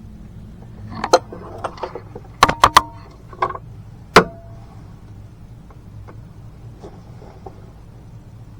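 Metal tools clinking and knocking against engine parts: a handful of sharp knocks, three in quick succession in the middle and a loud one about four seconds in, some ringing briefly like struck metal, over a steady low hum.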